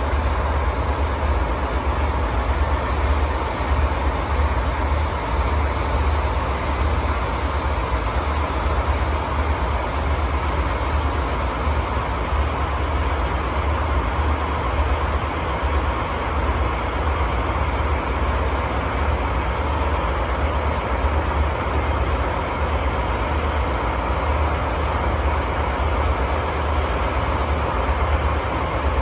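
DD51 diesel locomotive's twin V12 diesel engines running steadily just after starting, a deep even rumble. A faint high hiss over the engine noise drops out partway through.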